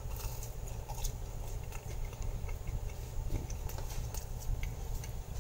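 A person chewing a crispy crescent-roll pretzel: scattered small crunchy clicks over a low steady hum.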